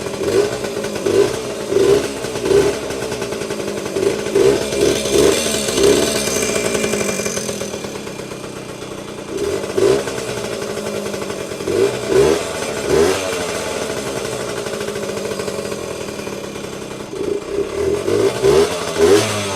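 Vintage Yamaha 80cc Enduro's two-stroke engine running, blipped up in short revs again and again between stretches of idle. The blips come in clusters near the start, around the middle and near the end, with a quieter idle in between.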